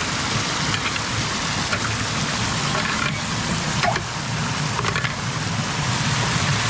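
Creek water rushing steadily, with a few faint knocks.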